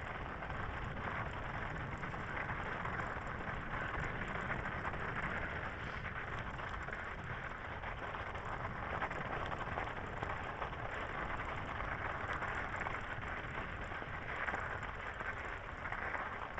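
Steady rolling noise of an electric bicycle being ridden over frozen snow on a forest track, with no distinct knocks or other events.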